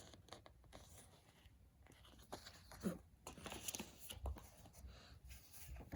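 Faint paper rustling and light clicks as paper inserts and a plastic DVD case are handled, scattered through, with more of them in the second half.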